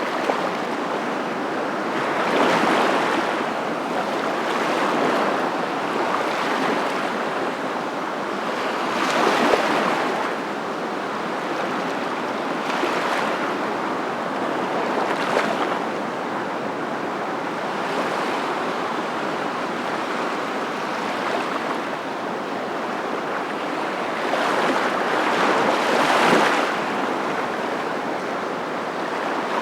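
Continuous rushing water noise that swells and eases every few seconds, the pattern of waves washing in.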